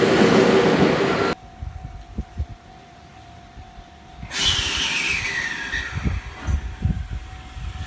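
Train running loudly, cut off suddenly about a second in. Then a quieter stretch with low thumps, and a hiss with a falling whine starting a little past four seconds in, easing off gradually.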